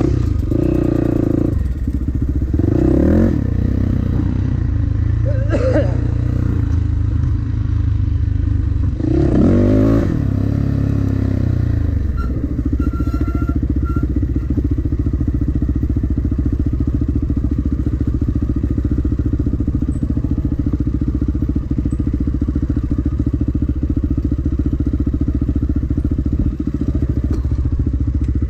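Dirt bike engine revving up and down several times, then running at a steady speed from about twelve seconds in.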